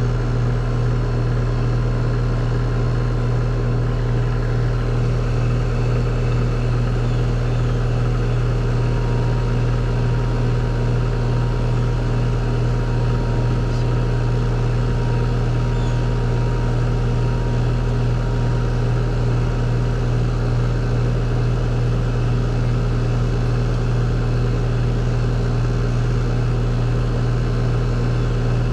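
A machine running steadily with a strong, even low hum and faint steady tones above it, unchanging throughout.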